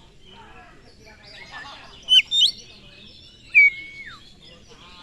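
Oriental magpie-robin (kacer) singing a varied run of whistled phrases with quick up-and-down slides. A pair of loud sharp notes comes about two seconds in, and a long whistle holds and then falls away about three and a half seconds in.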